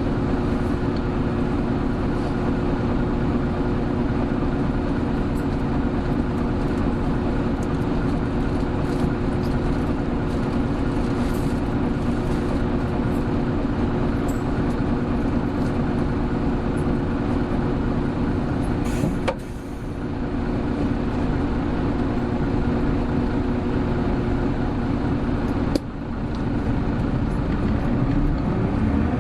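Running sound of a Hino Blue Ribbon City Hybrid bus heard from on board: its diesel engine runs at a steady pitch under way, with road noise. The engine sound dips briefly twice, with a click, about two-thirds through and again near the end. Then the pitch starts to rise as the bus pulls harder.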